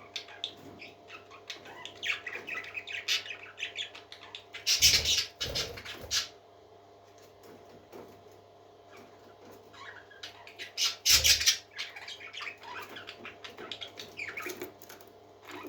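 Parrots chirping and squawking in short, quick calls, with two louder noisy bursts about five and eleven seconds in, over a steady low hum.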